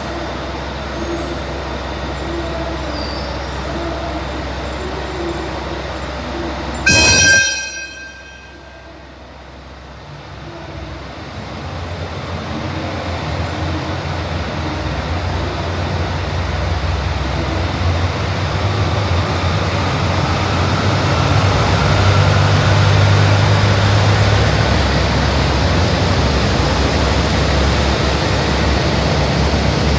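KiHa 281 series diesel train sounding one short horn blast about seven seconds in, then approaching with its engine drone and rail noise growing steadily louder.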